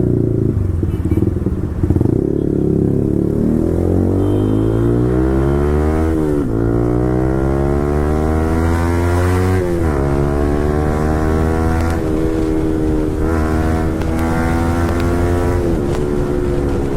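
Yamaha R15 V4's 155 cc single-cylinder engine, breathing through a full-system Akrapovic exhaust, pulling away from a stop and accelerating hard through the gears. The exhaust note climbs in pitch in each gear and drops sharply at each upshift, about four times.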